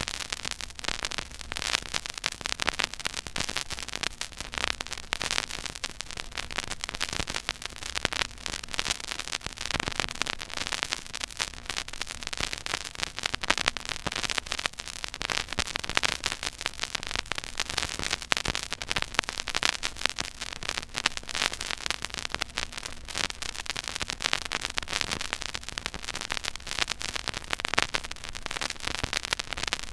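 Surface noise from a stylus tracking a silent groove on a 12-inch vinyl record: dense steady crackle and pops over faint hiss and low rumble.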